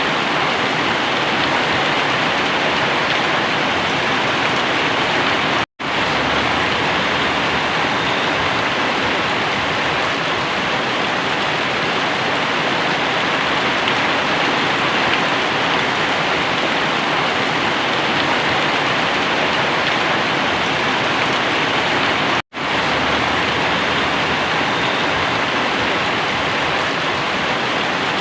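Very heavy rain falling steadily, a dense even hiss. It cuts out for a split second twice, about a third of the way in and again near the end.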